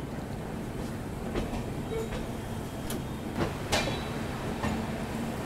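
Indian Railways passenger coach rolling slowly into a station: a steady rumble of wheels on the track, with a few sharp clanks a little past the middle.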